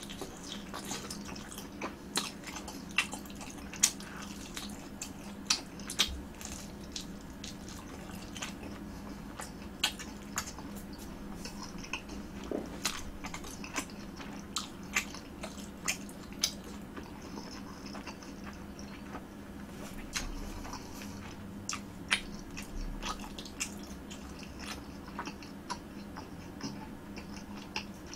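Close-up chewing and biting of a sotteok-sotteok skewer (sausage and chewy rice cake), with irregular wet mouth clicks and smacks.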